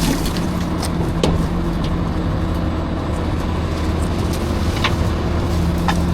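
Garbage truck engine running steadily with a low hum, a few light clicks and knocks over it.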